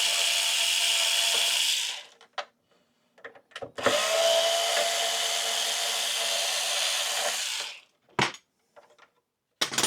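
Small electric screwdriver running in two bursts, about two seconds and then about four seconds, backing out the two Phillips screws of a PS5's processor clamp. A few light clicks come between the runs and near the end.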